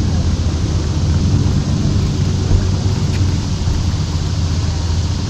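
Steady low rumble and hiss of a small motorboat under way, with wind on the microphone.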